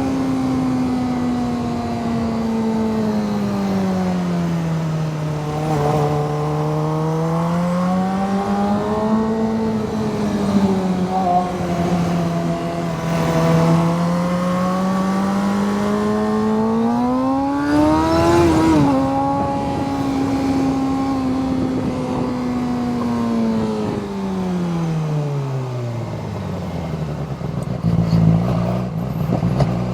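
Suzuki GSX-R sportbike's inline-four engine under way, its note rising and falling with the throttle. It eases off early, climbs to a peak about two-thirds of the way in with a quick drop, then falls away as the bike slows near the end.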